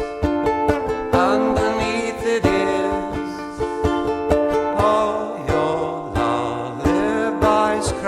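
Music: a ukulele strummed in a steady rhythm, with a voice gliding between notes over it without clear words.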